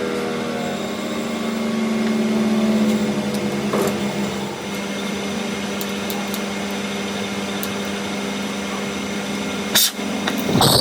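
A motor-driven machine running steadily with an even hum, with two sharp knocks about a second apart near the end.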